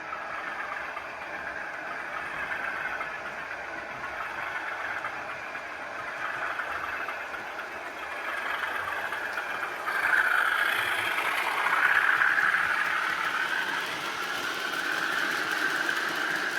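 Model diesel locomotive's DCC sound decoder playing diesel engine running sound through the loco's small speaker, thin, with little deep bass. It grows louder about ten seconds in.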